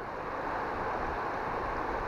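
Steady rushing of flowing floodwater, with wind buffeting the microphone.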